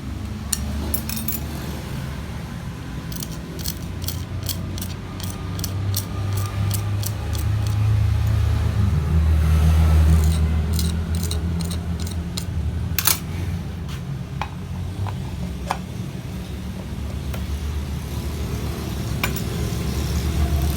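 Quick series of light clicks and clinks from hard parts being handled, about three a second, with more clicks later, over a steady low rumble that swells in the middle.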